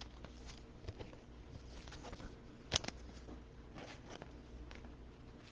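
Faint rustling of a plastic trading-card sleeve being handled, with a few soft clicks and one sharper click a little before three seconds in.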